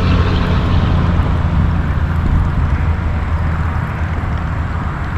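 Boat motor running steadily, a constant low hum over water and wind noise, easing off slightly near the end.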